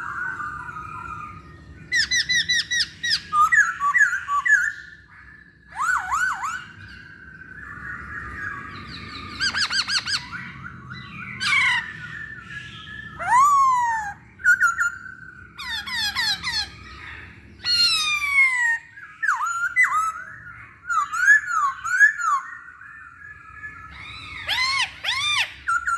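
Masked laughingthrush (poksay hongkong) singing a varied run of loud phrases: quick rattling note series, rising and falling whistles and downslurred notes, with short pauses between phrases, over a faint low hum.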